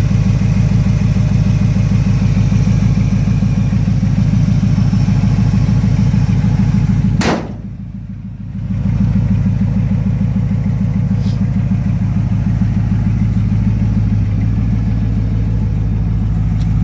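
Small-block Chevy V8, which the owner believes is a 350, idling steadily with an even pulse shortly after a cold start. A sharp click about seven seconds in is followed by a muffled second and a half before the engine sound comes back.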